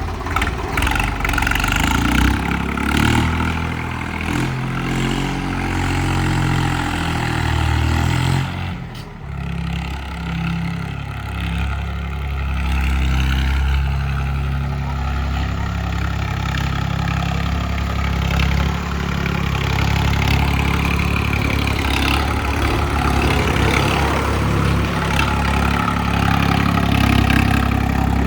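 Tractor diesel engine running, its revs rising and falling for the first several seconds, dipping briefly about nine seconds in, then holding a steady heavy drone.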